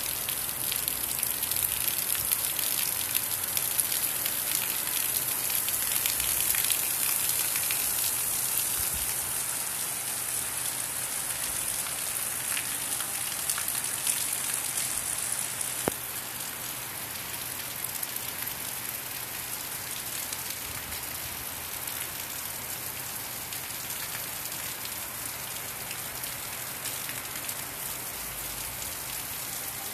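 Steady heavy rain falling on a flat concrete rooftop, a dense hiss of drops that eases a little about halfway through.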